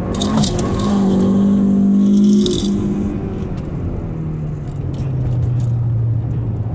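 Mazda 323F BG GT's four-cylinder engine heard from inside the cabin under hard driving. The revs climb and hold high for about two seconds, then drop about two and a half seconds in and settle into a lower, steady drone. Brief scraping hiss comes near the start and again as the revs drop.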